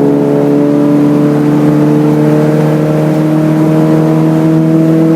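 Hyundai Excel race car's 1.5-litre twin-cam four-cylinder engine accelerating, its pitch climbing slowly and steadily, heard from inside the cabin.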